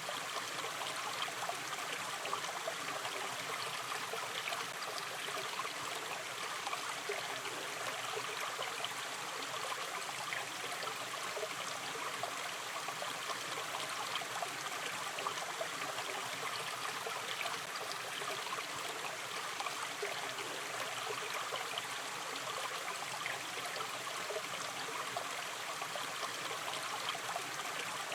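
Shallow stream running steadily, water flowing and trickling with a constant, even babble.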